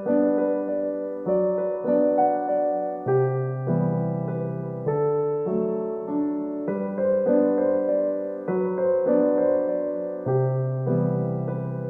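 Gentle solo piano background music, with chords played at an unhurried pace.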